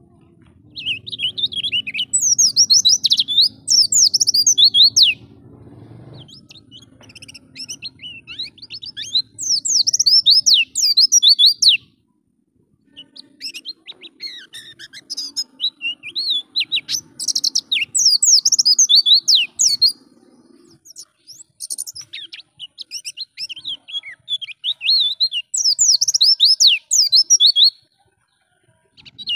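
White-eye (pleci) singing fast, high chirping notes that slide up and down, in four long phrases of several seconds each with short pauses between them.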